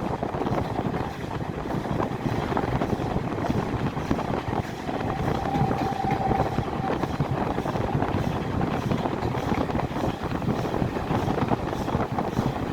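Steam-hauled passenger train running along the line, heard from aboard: a steady rumble of wheels and carriage with wind noise. A thin steady tone sounds for a couple of seconds about halfway through.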